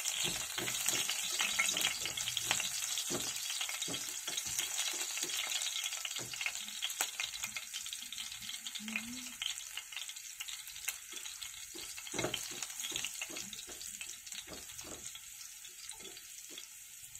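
Garlic cloves sizzling in hot oil in a nonstick frying pan, stirred with a silicone spatula that scrapes and knocks against the pan many times. The sizzle grows gradually quieter toward the end.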